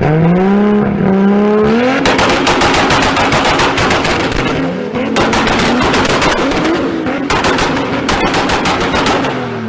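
A car engine revving up, then a long run of rapid, loud exhaust pops and crackles while the engine revs again partway through; it dies away near the end.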